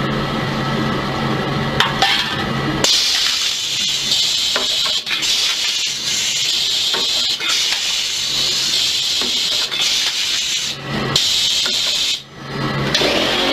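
A machine hums steadily. About three seconds in it is replaced by a loud rasping hiss that runs with a few short breaks; the hum comes back briefly near the end before the hiss returns.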